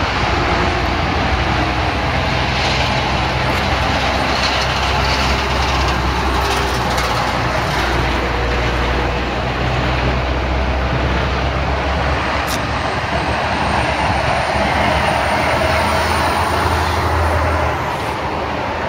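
Steady engine and travel noise of a moving vehicle, with a low drone that eases off near the end.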